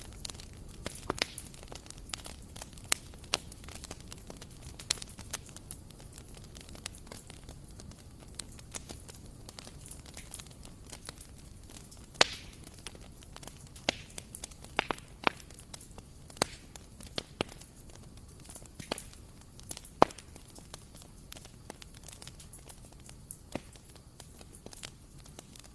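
Bonfire burning: a low steady rumble of the flames with sharp wood crackles and pops at irregular intervals, the loudest a couple of pops about twelve and twenty seconds in.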